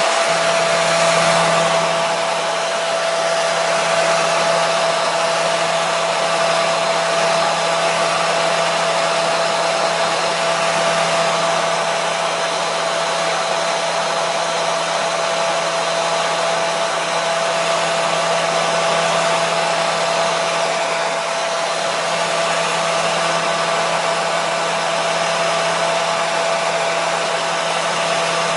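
Hair dryer running steadily: an even rush of blown air with a constant motor whine, no change in speed.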